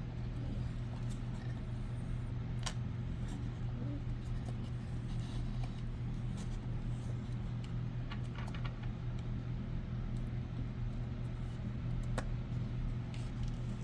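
A steady low mechanical hum in the room, with a few faint light taps or clicks scattered through it.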